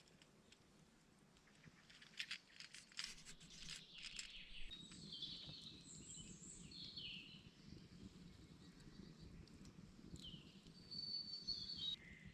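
Faint songbird calls in a forest, short chirping phrases twice, over a low steady background. A run of faint clicks and crackles comes in the first few seconds.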